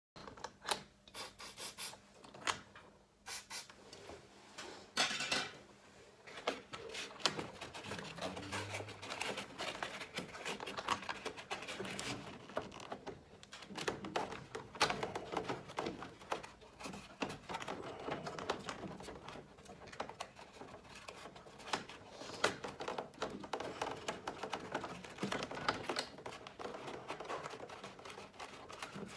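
Irregular small clicks, taps and rubbing sounds of hands working with tools and materials, going on throughout without a steady rhythm.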